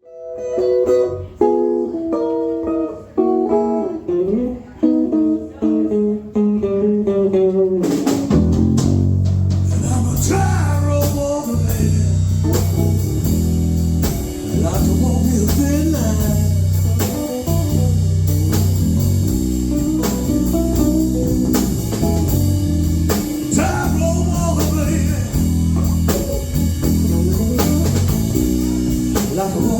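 Blues rock band playing live: a guitar plays the intro alone, and about eight seconds in the full band comes in with bass and drums.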